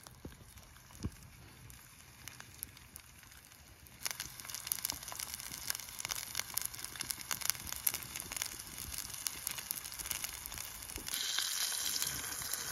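Burger patty frying in a cast-iron pan over a wood-fired ammo-box stove, with crackling and spitting fat. It is faint at first, turns to dense sizzling and spitting about four seconds in, and a louder, steady hiss takes over near the end.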